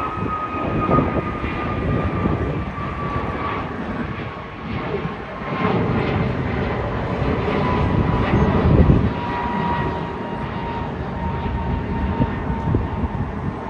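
Jet airliner climbing out after takeoff: a steady engine roar with a thin whine that slowly falls in pitch as the aircraft moves away. Wind buffets the microphone in uneven gusts of low rumble.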